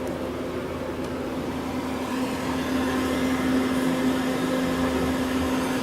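Citizen M20 CNC Swiss-type lathe's main spindle turning under C-axis control: a steady motor hum with a constant whine, growing a little louder about two seconds in.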